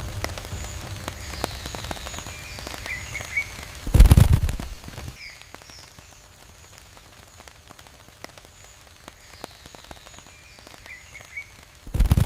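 A bird's wings flapping in a short loud flurry about four seconds in and again near the end, over steady small clicks and rustles with a few faint bird chirps.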